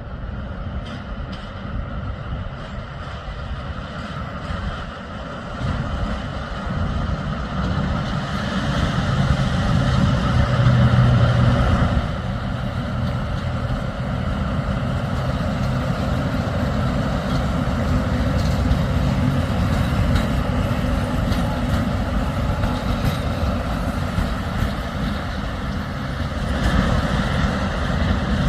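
Railway locomotive running, a continuous rumble that builds over the first ten seconds or so, loudest with a low hum around ten to twelve seconds in, then holds steady.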